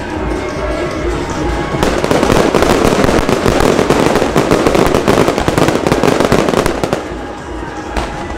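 Aerial fireworks going off, building about two seconds in to a dense, rapid crackling barrage that eases off near the end, closing with a single sharp pop. Music plays underneath.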